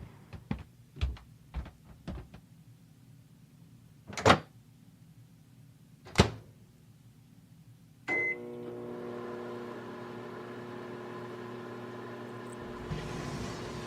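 A few light taps, then two loud sharp knocks. About eight seconds in a short high beep sounds and a microwave oven starts running with a steady hum, heating a microwaveable heat pad.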